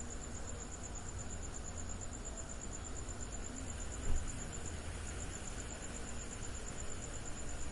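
Crickets chirping in a continuous, rapidly pulsing high-pitched trill, over a low background rumble. A brief low bump is heard about halfway through.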